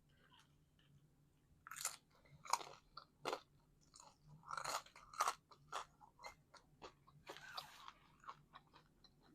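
A person chewing and biting into a calzone: irregular crunches and wet mouth clicks, starting about two seconds in.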